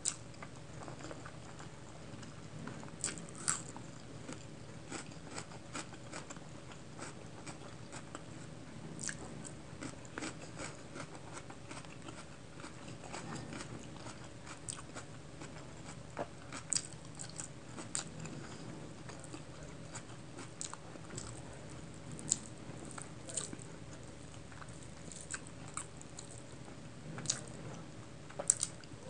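Close-miked eating sounds: chewing with frequent sharp crunches, scattered every second or so and bunched in places, as raw onion and rice with chicken curry are eaten by hand.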